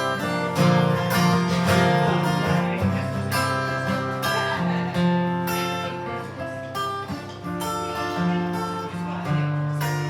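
Live music: an acoustic guitar strumming chords, with low held notes underneath, in an instrumental passage without singing.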